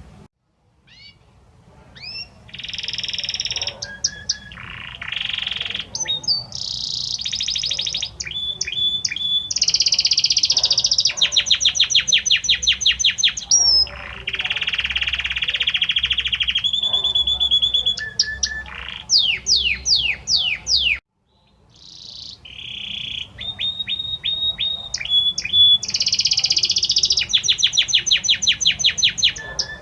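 Male Belgian canary singing its courtship song to a female: a long run of varied phrases, with fast trills, rolls and held whistled notes. It sings in two long bouts, with a brief pause about two-thirds of the way through.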